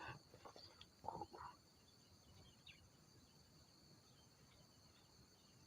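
Faint steady drone of insects with a few short rustles and knocks in the first second and a half, then only the drone and a few faint chirps.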